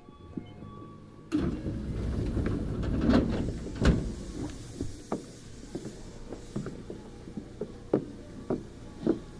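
Passenger doors of a Tokyu Series 9000 electric train sliding shut at a station stop: a sudden rush of sliding noise a little over a second in, ending in a hard thud about four seconds in. Scattered sharp clicks and knocks from the standing car follow.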